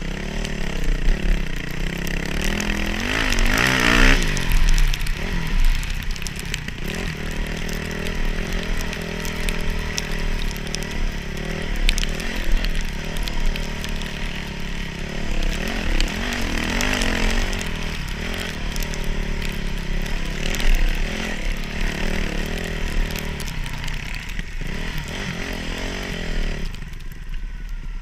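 Dirt bike engine running under load, its revs rising and falling again and again as it is ridden, then dropping away near the end.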